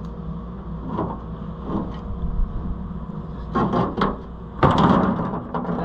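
A few knocks and a rattling clatter of metal parts being handled while working on a combine header, the loudest clatter about five seconds in, over a steady low hum.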